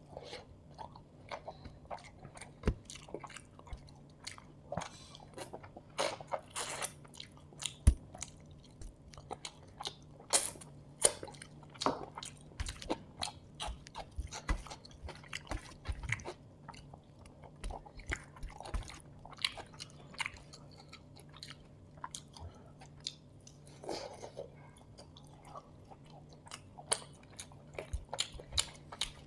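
Close-miked eating: wet chewing with bites and crunches, as of chicken biryani with curry gravy and raw onion being eaten. The clicks and crunches come irregularly, several a second, over a faint steady hum.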